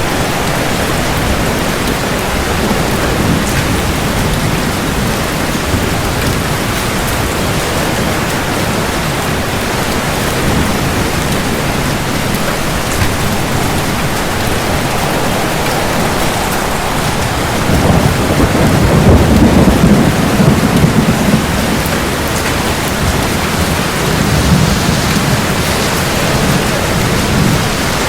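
Steady heavy rain with thunder rumbling. A long, loud roll of thunder swells up about two-thirds of the way through, and a weaker rumble follows near the end.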